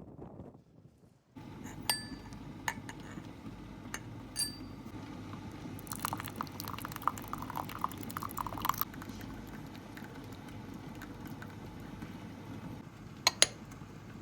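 Kitchen work: glass and metal dishes and utensils clinking, with sharp ringing clinks about two and four seconds in, a couple of seconds of busier clatter in the middle, and two sharp knocks near the end, over a steady low hum.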